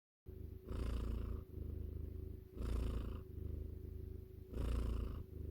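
Domestic cat purring close to the microphone. It starts about a quarter second in and rises and falls with the cat's breathing, with three louder swells about two seconds apart.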